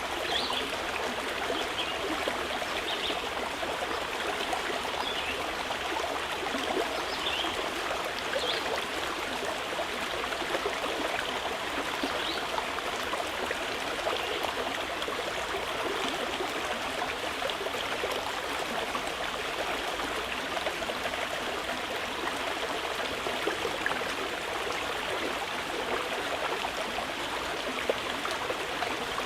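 Mountain river flowing steadily, an even rush of water over stones. A few short, faint high bird calls come through it in the first half.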